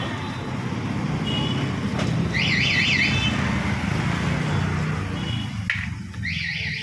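Road traffic: a vehicle engine runs steadily, with two short warbling electronic chirps like a car alarm or reversing tone and a couple of brief horn toots.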